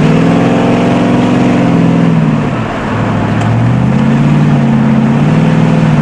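1973 Dodge Charger's 400 big-block V8, heard from inside the car, held at steady revs. It drops off briefly about two and a half seconds in, then revs back up with a rising pitch and holds steady again.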